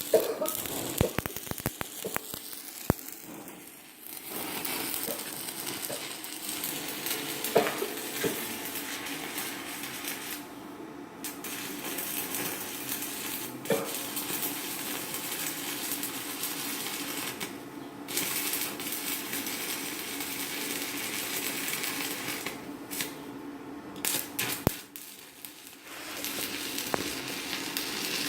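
Stick welding arc from a 4.0 mm electrode on an inverter arc welder: a steady crackling sizzle that drops out briefly a few times, with sharp clicks in the first few seconds.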